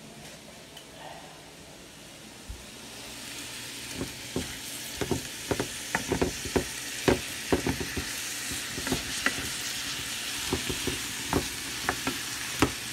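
Frozen broccoli frying in garlic butter in a frying pan, sizzling, while a wooden spoon stirs it with frequent knocks and scrapes against the pan. The sizzle builds a few seconds in, and the stirring knocks begin about four seconds in.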